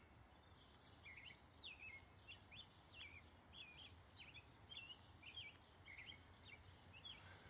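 Songbirds singing faintly in a steady run of short chirps, two or three a second: an evening song.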